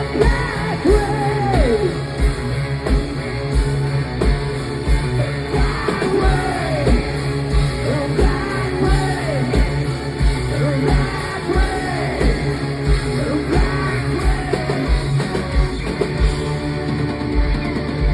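Hard rock band playing live: a kick drum pounding about twice a second under distorted guitars, with a lead line that slides up and down in pitch.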